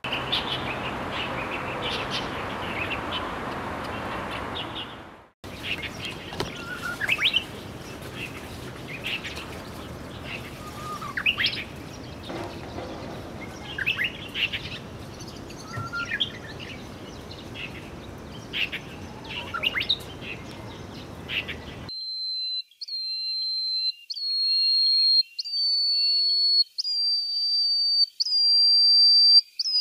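Small songbirds calling: scattered short, sharp chirps over a background hiss. Near the end comes a run of clear whistled notes repeated about once a second, each a little higher than the last.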